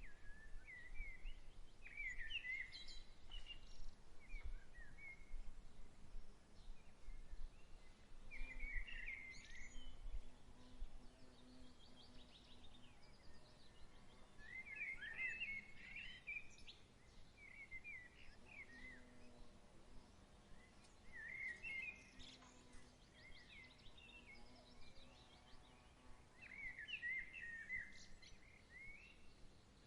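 A songbird singing short, quick phrases of chirping notes, repeated about every five to six seconds, over faint breeze.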